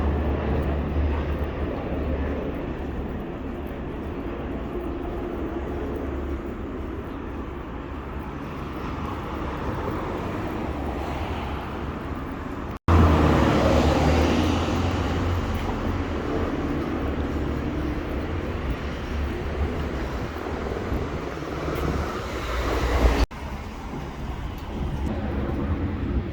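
Steady outdoor rumble of vehicle traffic with a constant low roar. It is broken twice by abrupt cuts where the level jumps, the first into a louder, fuller passage.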